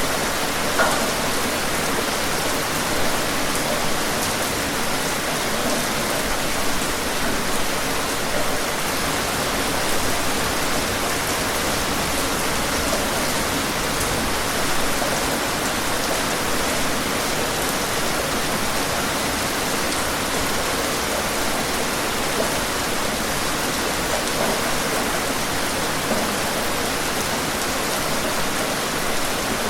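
Steady rain falling and pattering on a surface, an even hiss with occasional louder drops.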